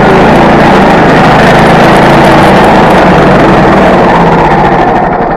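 Petrol-engined saw running steadily under load while milling a log, its sound dropping away near the end as it winds down.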